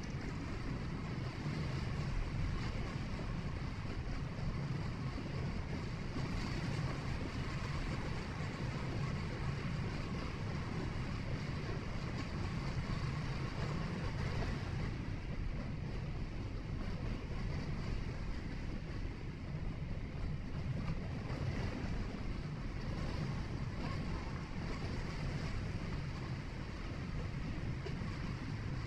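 A car driving steadily, heard from inside the cabin: an even low rumble of tyres and engine with a faint hiss of wind, unchanging throughout.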